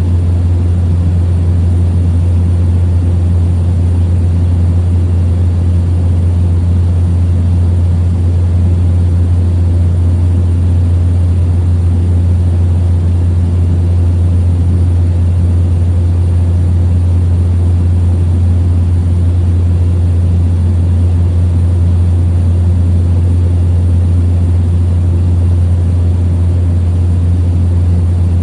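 Small plane's propeller and piston engine running steadily in cruise, heard inside the cabin as a loud, even, low drone.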